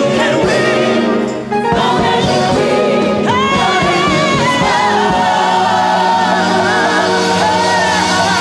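Gospel choir and lead vocalists singing with a backing band, holding long notes with vibrato; the music drops back briefly about a second and a half in, then the voices come in again and sustain.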